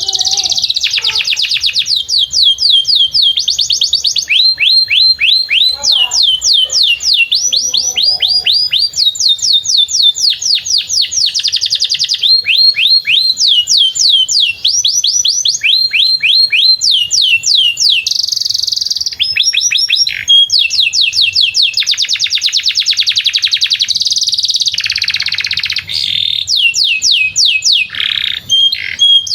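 Canary singing a long, unbroken song of fast trills. Rows of quick falling notes run into one another and switch to a new trill every second or two.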